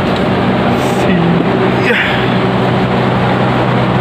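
Steady diesel hum of a stopped passenger train, a constant low drone with a rush of noise over it. A brief hiss comes about two seconds in.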